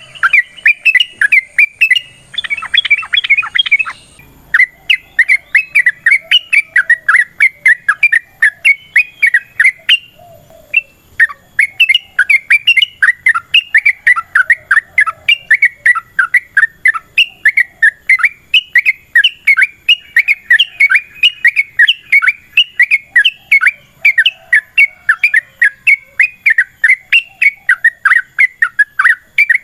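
Yellow-vented bulbul (trucukan) calling in a long, rapid run of short chirping notes, about three a second. The run has a brief break about ten seconds in.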